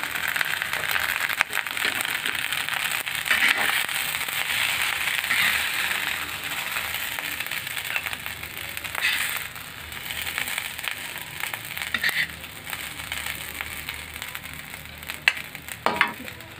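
Fried rice sizzling and crackling in a hot pan, with a metal spatula scraping and clicking against the pan as the rice is scooped out onto a plate. The sizzle fades over the second half, and a few sharper clicks come near the end.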